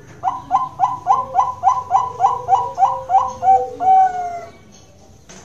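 Zebra dove (Bangkok-strain perkutut) singing: a quick run of about a dozen short cooing notes, about four a second, ending in a longer drawn-out note about four seconds in.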